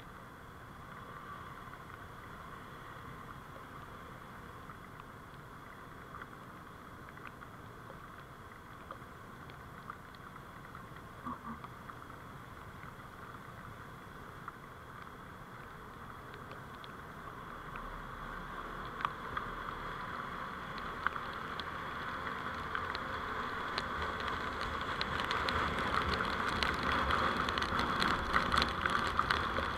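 Vehicle driving noise: a steady hum that grows louder over the last dozen seconds, with a rapid crackle of small clicks near the end.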